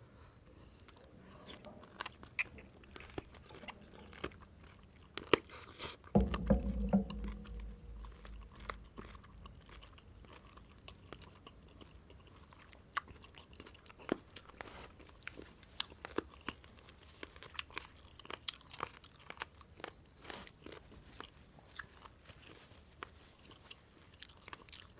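A person chewing and biting food close to the microphone, a steady run of small wet clicks and crunches. About six seconds in there is one louder, deeper thud.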